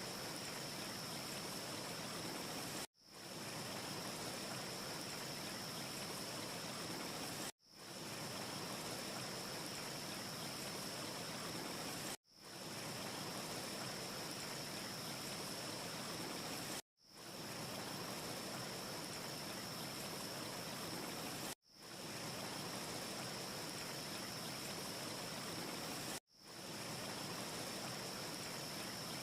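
Steady hiss of a wind ambience track with a faint high whine running through it. It cuts out abruptly about every four and a half seconds and fades straight back in, six times, like a short loop restarting; no fire crackle is heard.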